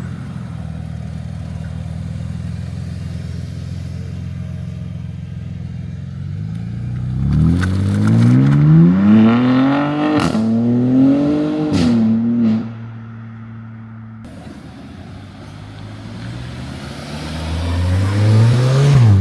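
A car engine idling steadily, then revving hard in several rising surges as it accelerates away, with a few sharp cracks among the revs. The note cuts off abruptly, and near the end another engine note rises.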